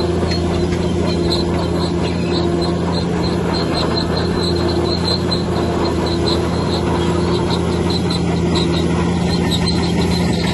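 Heavy earthmoving machine's diesel engine running steadily under load, with short high squeaks repeating two or three times a second, like a crawler's track undercarriage squeaking as it moves.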